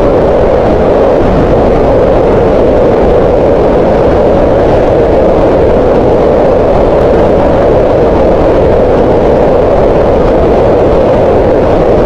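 Green noise: a steady, even hiss of random noise centred around 500 Hz, with no changes.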